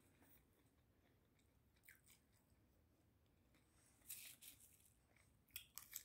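Faint chewing and crunching of food, a few short crackles about two seconds in and again between four and six seconds, near silence between them.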